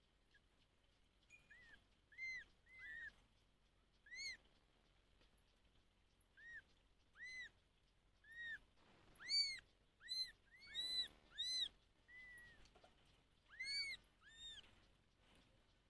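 Kitten mewing: about fifteen short, high-pitched mews, each rising and falling, coming irregularly and bunched together in the middle.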